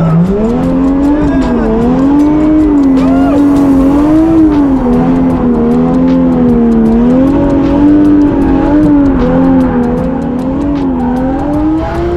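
A single-turbo Toyota Chaser JZX100 drift car's engine held at high revs through a drift. Its pitch rises and falls continually as the throttle is worked.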